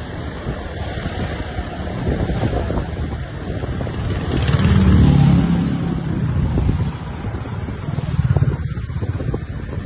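Road traffic: motor vehicles running and passing, with a low rumble that swells to its loudest about halfway through and again briefly near the end.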